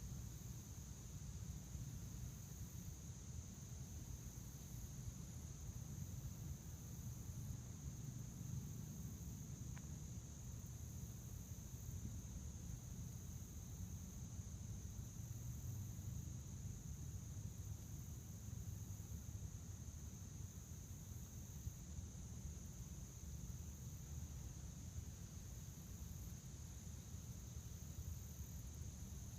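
Crickets chirping in a steady, continuous high-pitched chorus, over a faint low rumble.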